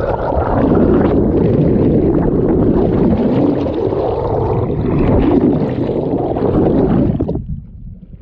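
Loud, muffled rush and gurgle of water moving along a small sailing dinghy's hull, close to the microphone. It drops away suddenly near the end.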